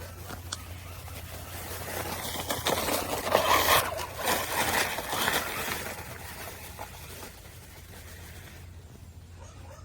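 A vehicle driving past: a rushing noise with a faint whine builds from about two seconds in, peaks, and fades away by about six seconds in.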